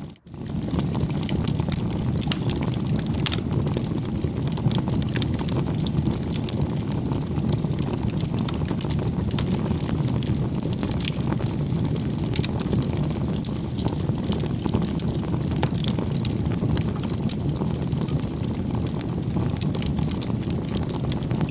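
Bonfire crackling steadily: a low rumbling hiss with many small sharp pops and snaps throughout. The sound drops out for a moment just after the start.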